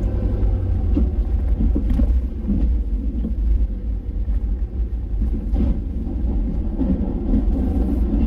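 Snow-plow truck driving, its engine and drivetrain giving a steady low rumble, with a few faint knocks.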